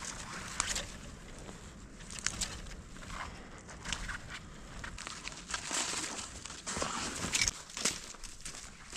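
Footsteps crunching in frozen snow, an irregular series of short crunches and crackles.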